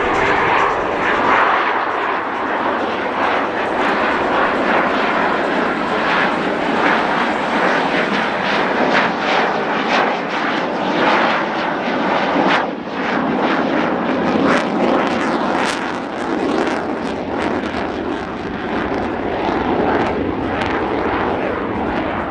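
Aircraft engine noise, a loud, steady roar that is noisy rather than tonal, with many short crackles through it.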